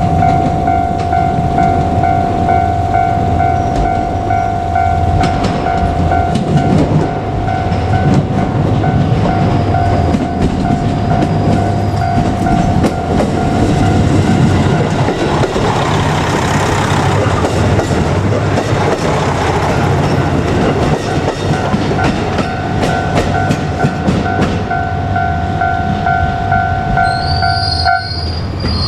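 A Japanese level-crossing alarm bell rings steadily while a JR Kyushu KiHa 200 diesel railcar runs over the crossing. The engine and wheel noise is loudest about 15 to 20 seconds in and covers the bell, which stops shortly before the end.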